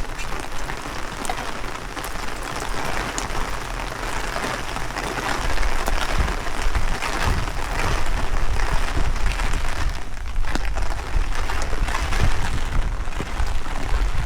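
Heavy rain falling, with strong wind buffeting the microphone in a low rumble. The rain gets louder about five and a half seconds in.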